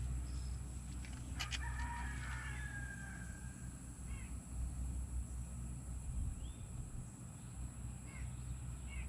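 A rooster crows once, a long held call starting about one and a half seconds in, with a sharp click just before it and short chirping calls here and there, over a steady low hum.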